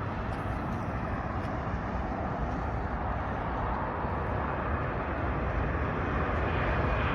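Jet engines of a small airliner on approach, a steady rushing roar that slowly grows louder as it nears; the aircraft is taken for an Embraer regional jet.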